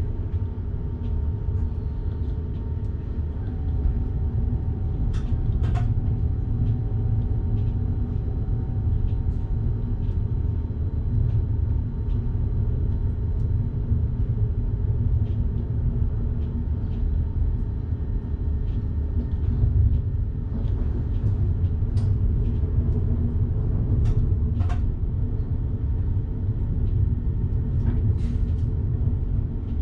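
Steady low rumble of an electric passenger train running along the track, heard from the driver's cab, with scattered faint clicks and a thin steady whine for several seconds a few seconds in.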